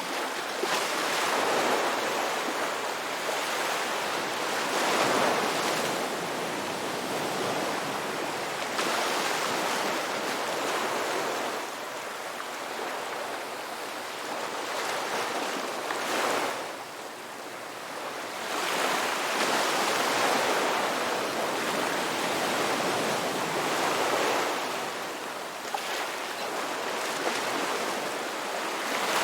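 Ocean surf: waves breaking and washing up the shore, the rush of water swelling and easing every few seconds.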